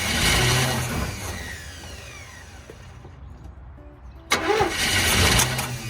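1984 Chevy C20 truck engine cranked on the starter twice, catching briefly on gas primed into the carburetor each time and dying away again.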